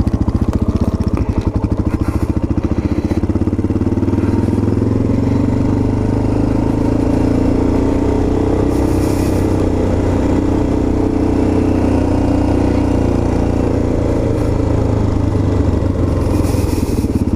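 Honda XR650L's single-cylinder four-stroke engine running steadily at low road speed, its engine note rising a little and settling back midway.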